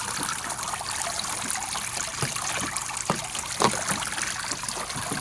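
Water trickling steadily down a plastic toy water table's pump-fed waterfall, with a few small splashes about two to four seconds in.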